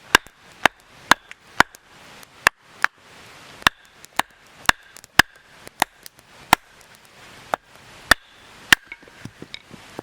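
A blade chopping with sharp, separate strikes, about two a second at an uneven pace and around fifteen in all. Each strike carries a brief high ring.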